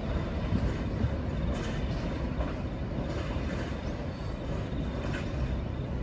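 Sydney Trains double-deck electric suburban train rolling along the tracks: a steady low rumble with a few faint clicks.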